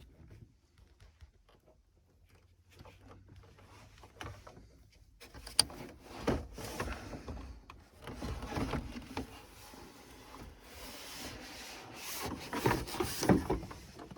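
Plastic dashboard trim panel being worked loose and handled, rubbing and scraping against the dash with a few sharp clicks and knocks. It is faint for about the first five seconds, then louder.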